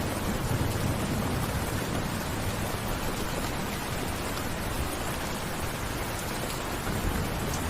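Steady rain falling, a dense even hiss, with a low rumble dying away in about the first second.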